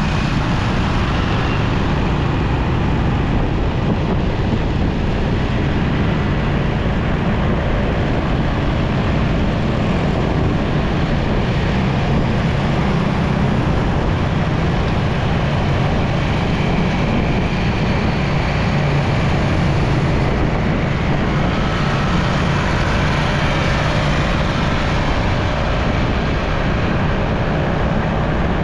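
Steady road noise of a motorcycle ride through city traffic: the bike's engine running with wind and the sound of surrounding traffic, unbroken throughout.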